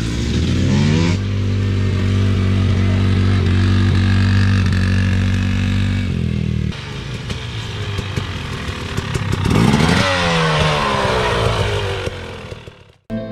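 Dirt bike engine revving up and holding a steady note. After a break it revs up and back down again, then fades away near the end.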